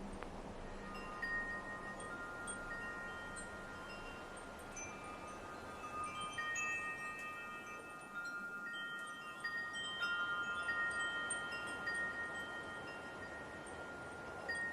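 Wind chimes ringing, with several long, overlapping tones that come and go, starting about a second in, over a faint steady hiss of light wind.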